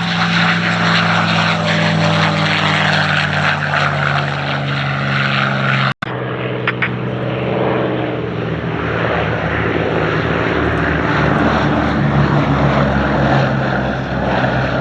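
P-51D Mustang's Packard Merlin V-12 engine running in a flypast. Its note falls slightly in pitch as it passes, breaks off abruptly about six seconds in, then continues as a rougher, noisier engine sound.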